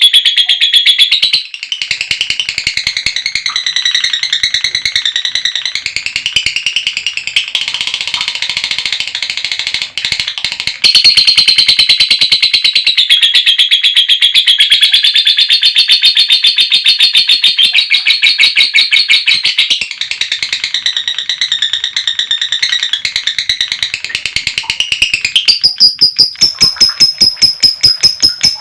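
Female lovebird's ngekek: a long, rapid, high-pitched chattering trill held almost without a break. Near the end it changes to sharper, separate chirps, about four a second.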